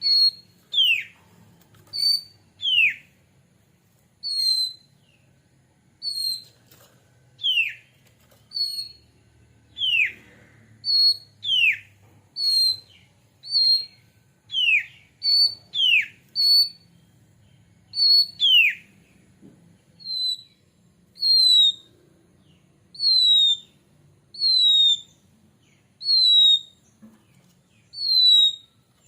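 Oriental magpie-robin (kacer) giving loud, clear whistles about once a second. For the first two-thirds, short high notes alternate with longer whistles that slide steeply downward; from about twenty seconds in, only the short, high, falling notes continue.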